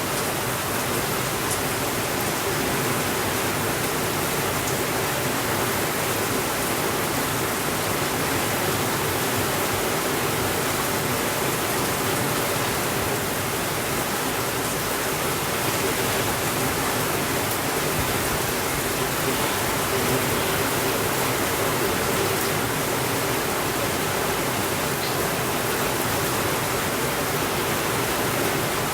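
Steady, even rainfall: a dense, unbroken rush of rain with no thunder and no changes in loudness.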